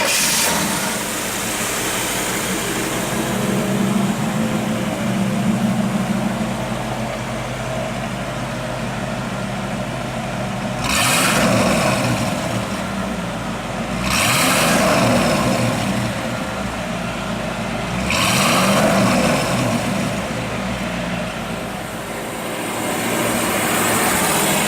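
A 1962 Chevrolet Impala's 283 cubic inch small-block V8 idling steadily, then revved three times, rising and falling back to idle each time.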